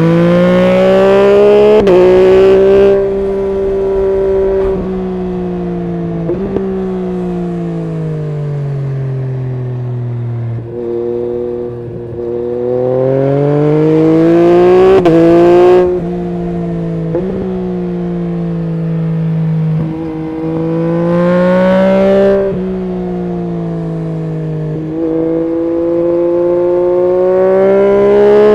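Yamaha MT-09 SP's three-cylinder engine through an Akrapovic full exhaust, ridden hard: it pulls up through the revs about four times, with sharp breaks in pitch at the gear changes, and between pulls the note falls away as the throttle closes.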